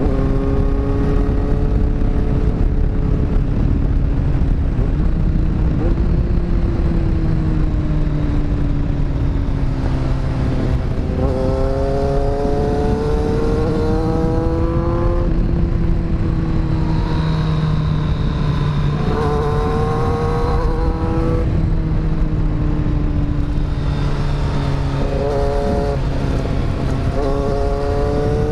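Kawasaki inline-four motorcycle engine under heavy wind rush, its revs sinking slowly for the first ten seconds or so as it rolls downhill. It then rises in short pulls through the gears, with the pitch dropping between them, around the middle and again near the end.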